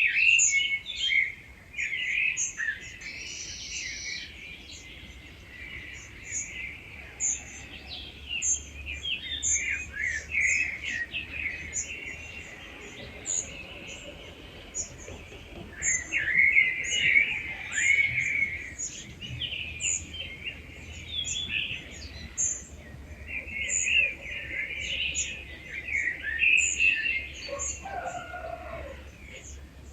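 Dawn chorus: several wild birds singing at once in overlapping, warbling phrases, with a thin high note repeated over and over throughout.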